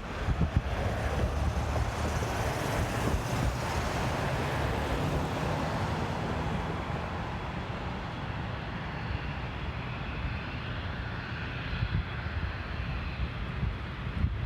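Wind buffeting the microphone with a low, gusty rumble, over a rushing noise that swells over the first few seconds and then slowly fades.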